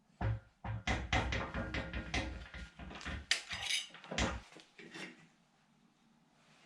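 A 1.5 mm steel sheet being hammered to bend it into a U shape: a quick irregular series of metallic knocks with a slight ring, stopping about four and a half seconds in.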